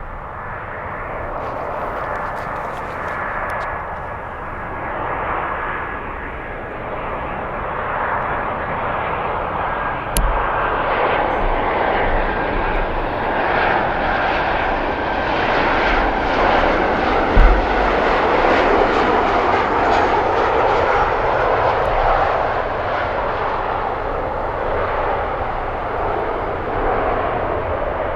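Jet airliner's engines passing by: the engine noise swells over several seconds to a peak past the middle and then slowly eases, with a thin high whine sinking slightly in pitch. A few low thumps, one sharp near the loudest point.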